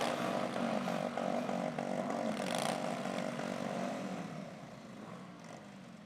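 Several motorcycle engines running together, a steady pulsing drone that fades away over the last couple of seconds as the bikes move off.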